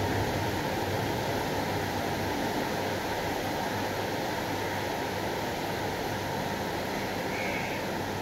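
Heavy thunderstorm rain pouring down steadily, an even rushing noise with no thunderclap.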